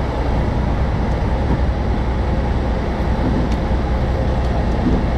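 Heavy tow truck's diesel engine running steadily under load during a recovery pull.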